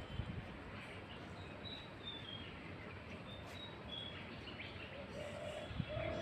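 Birds calling over a steady background hiss: a few short, high chirps through the middle, then low, held call notes beginning near the end.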